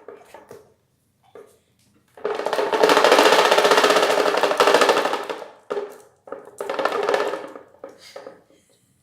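An old electric fan with its blades pulled off, switched on and rattling and knocking hard under a motor hum, in stretches that start and stop: one long run of about three seconds, then several shorter ones.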